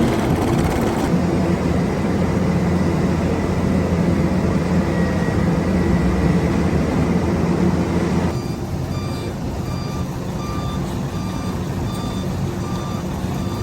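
Heavy road-works machinery running with a loud, steady diesel engine drone. After an abrupt change about eight seconds in, a reversing alarm beeps over the engine at an even, rapid rate.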